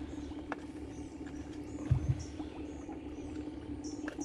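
Small birds chirping with short high calls, several times, over a steady low hum and rumble. Two dull thumps come about two seconds in.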